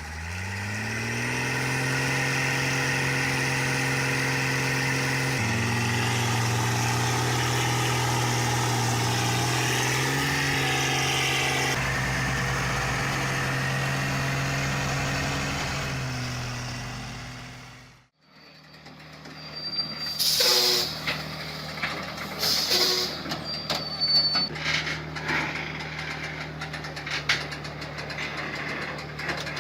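A heavy truck's engine revs up and then runs steadily under load, its pitch stepping up and down several times. It cuts off abruptly about two-thirds of the way through. Another engine follows, running steadily under a series of sharp metallic clanks and hisses.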